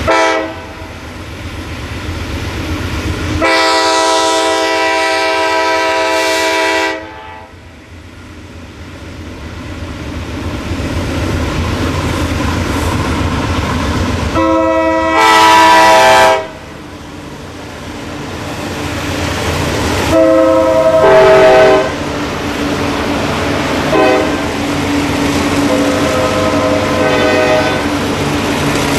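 Lead unit of a set of six ALCO C420 diesel locomotives sounding its horn for a grade crossing: two long blasts, then shorter ones. Underneath, the low rumble of the V12 diesels grows louder as they work hard to drag a long, heavy train up a grade.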